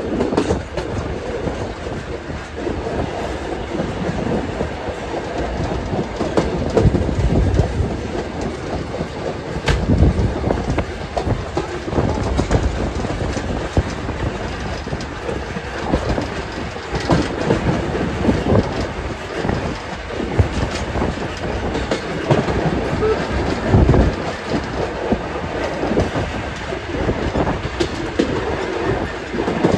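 Passenger coach of a steam-hauled train running along the track: a steady rumble of wheels on rail with irregular clicks and knocks as the wheels pass over rail joints.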